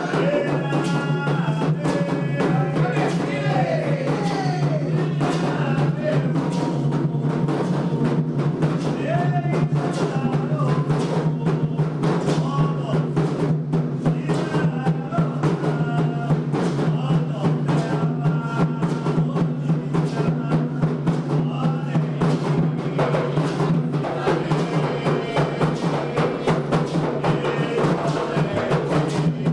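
Candomblé atabaque hand drums played in a fast, steady rhythm, with voices singing a chant for Xangô over them.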